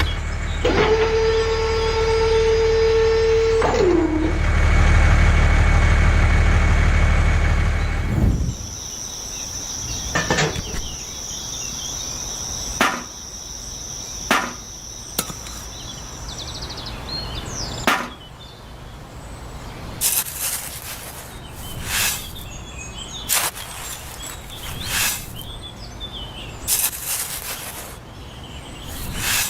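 A small motor running with a steady low hum and a held whining tone that slides down in pitch, then stopping about eight seconds in. After it stops come scattered sharp knocks and taps, about a dozen, with a thin high steady whine during the first half of them.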